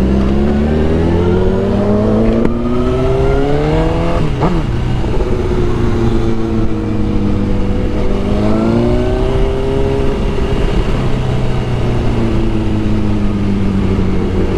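Suzuki GSX-R1000 inline-four motorcycle engine accelerating, its pitch rising for about four seconds and then dropping sharply at an upshift; it climbs again briefly, eases off and settles into a steady cruise, over wind rush.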